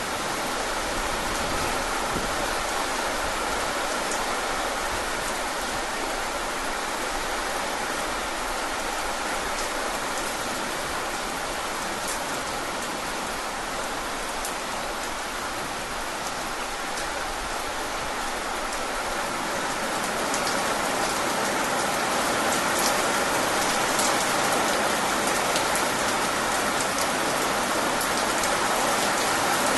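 Steady rain falling, a dense hiss with scattered individual drop ticks, growing a little heavier about two-thirds of the way in.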